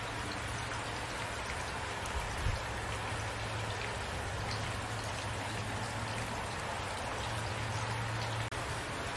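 Steady rain falling: an even hiss with scattered drop taps over a low rumble, dipping for an instant near the end.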